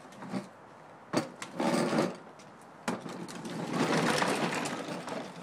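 Child's pedal tractor rattling as it rolls, in two stretches, with a couple of sharp knocks between them.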